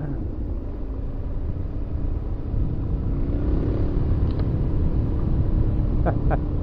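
Suzuki DR-Z400 single-cylinder engine running while riding along a gravel road, with heavy low wind rumble on the helmet microphone. The engine note rises a little about three seconds in.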